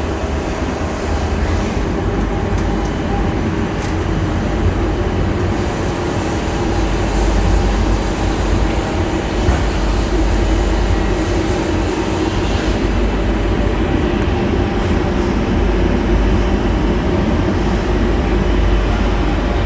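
Machinery running steadily: a continuous low rumble with a steady hum.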